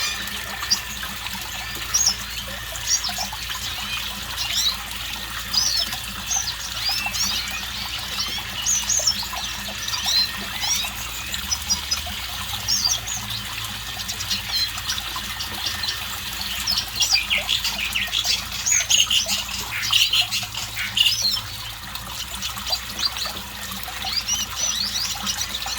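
Red siskin singing a long run of rapid, high twittering chirps and trills, busiest about two-thirds of the way through.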